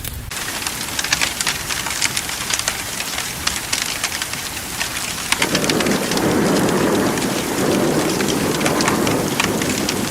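Heavy rain pattering, with many individual drop impacts. About halfway through, a low rumble of thunder sets in and keeps on.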